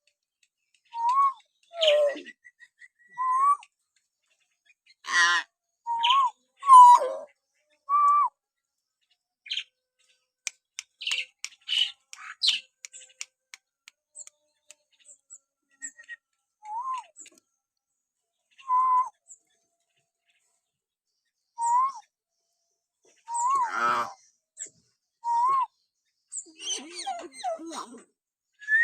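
Hill myna calling in scattered bursts: short clear whistles that each rise and fall quickly, mixed with a few harsh squawks and a quick run of thin chirps about halfway through, with quiet gaps between calls.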